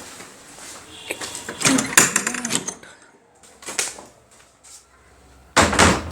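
A series of short clatters and knocks from things being handled, with quiet gaps between them; the loudest, a dense rattle, comes near the end.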